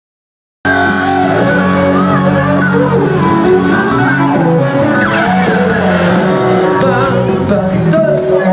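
Live rock band playing loudly through a concert sound system, guitar to the fore with singing. It cuts in abruptly from dead silence just under a second in.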